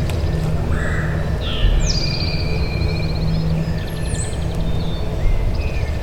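Songbirds singing: a fast high trill with rising sweeps and several short whistles and chirps, over a steady low rumble.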